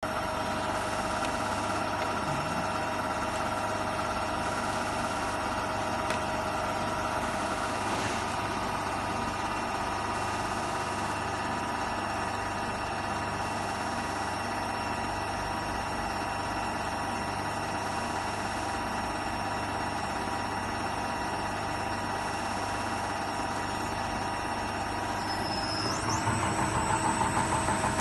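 Common rail injector test bench running: a steady machine hum with several held tones from its motor and pump. About two seconds before the end a high whine rises in pitch and the sound grows louder, beginning to pulse.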